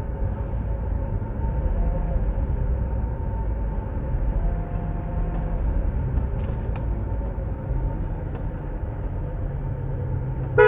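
Car creeping along a rough jungle track, heard from inside the cabin: a steady low rumble of engine and tyres. A short car horn honk right at the end.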